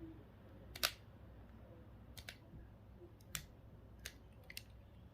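Small screwdriver clicking and tapping against the screws and plastic case of a GPS unit as the screws are worked out: about six sharp, separate clicks, the loudest about a second in.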